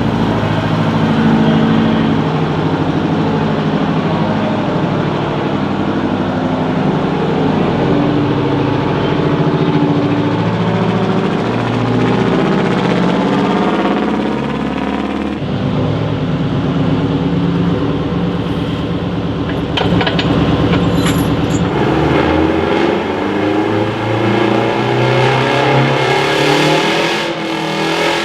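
A pulling vehicle's engine running hard and revving under load, its pitch dipping about halfway through and climbing again later on.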